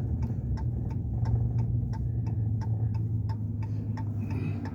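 Vehicle turn signal clicking steadily, about three clicks a second, over the low hum of the engine, heard from inside the cab while pulling over.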